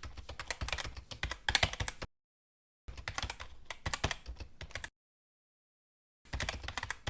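Rapid clicking like typing on a keyboard, in bursts of about two seconds with dead silence between them.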